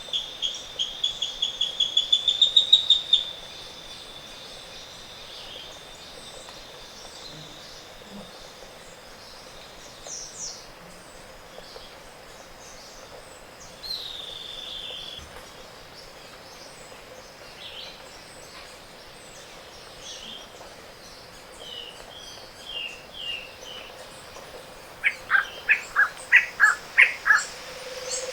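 Tropical forest birds in a morning chorus: one bird opens with a series of about a dozen high notes that climb and speed up, getting louder, then scattered faint calls follow, and near the end another bird sings a loud series of about nine lower notes.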